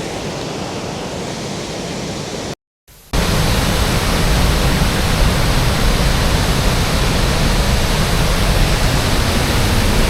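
Roar of Sgwd yr Eira waterfall, running high after rain: a steady, full rush of falling water. About two and a half seconds in the sound cuts out for half a second, then returns louder and deeper.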